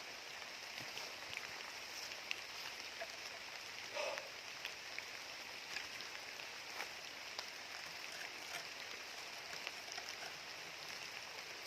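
Steady patter of small water drops, like light rain, with many scattered ticks and a brief duller knock about four seconds in.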